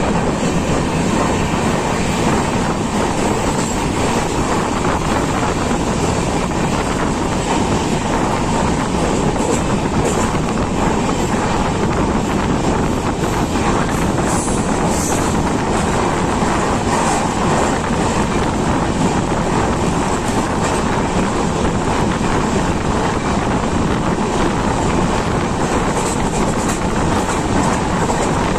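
Express passenger train running at speed, heard from aboard a coach: a steady, loud rush of wheel-on-rail and running noise with a few scattered clicks.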